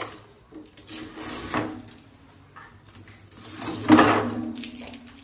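Handling noises from a new chest freezer: a sharp knock at the start, then scraping and rubbing, with the longest and loudest scrape about four seconds in.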